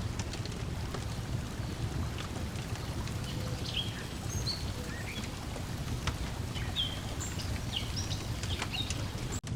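Layered lakeside ambience: water lapping at the shore as a steady low wash, a wood fire crackling with scattered sharp pops, and small birds chirping short high notes, busier from about a third of the way in. The sound cuts out for a split second near the end.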